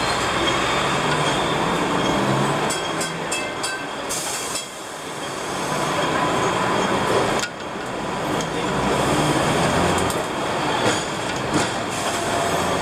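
Hong Kong double-decker electric tram running on its street rails: a steady rumble and rattle of wheels on track, with a few sharp clicks about three seconds in.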